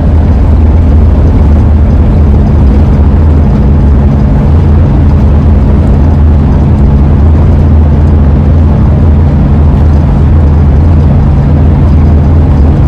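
Steady driving noise inside the cabin of a 2001 Ford E-350 camper van at speed: a loud, even rush of wind and road with a constant low hum.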